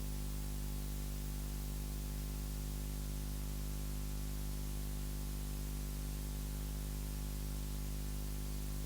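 Steady electrical hum with a faint hiss from the sound or recording system, a low buzz made of many even tones.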